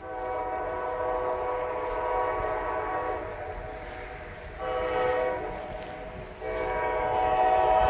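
Diesel freight locomotive's air horn blowing a chord: a long blast, a short one and another long one, the close of the long-long-short-long grade-crossing warning.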